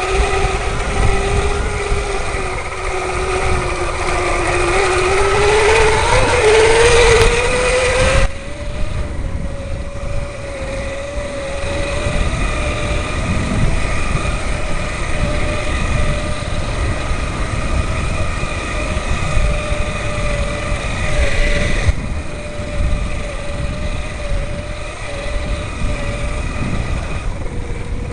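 Electric bike's motor drive whining under power, its pitch rising for the first eight seconds or so, then suddenly quieter as power eases while the whine holds steady. Wind and tyre rumble run underneath.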